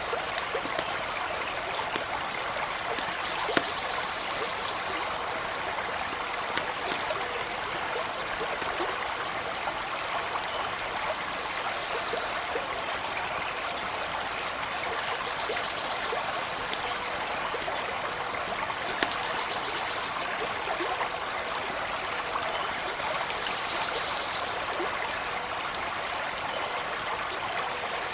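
Stream running and trickling steadily, with a few sharp crackles from a campfire breaking through now and then.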